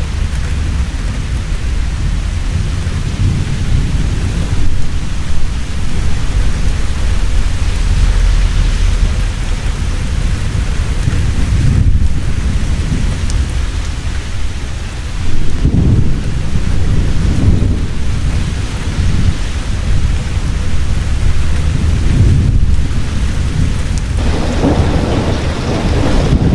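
Heavy rain pouring steadily with thunder rumbling deep beneath it, the rumble swelling in rolls about halfway through and again near the end.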